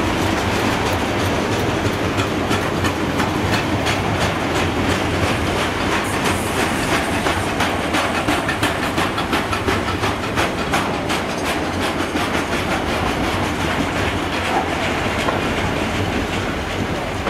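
Loaded steel-coil freight wagons rolling past at a steady speed: a continuous rumble with rapid clickety-clack of wheels over the track, busiest in the middle and easing slightly as the last wagon goes by.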